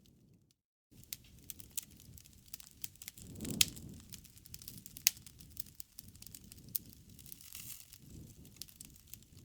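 Wood fire crackling and popping over a low rumble of flames, with two louder pops about three and a half and five seconds in. The sound cuts out to silence for about half a second just after the start.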